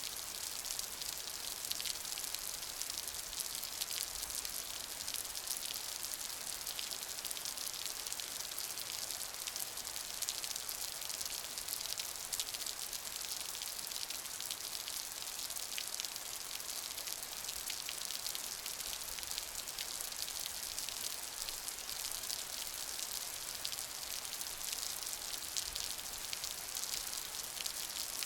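Steady rain, an even hiss of many fine drop ticks with no change in intensity.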